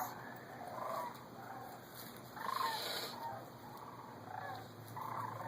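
A large flock of migrating birds calling overhead: many distant, rough, overlapping calls, one every half second or so, not the honking of geese.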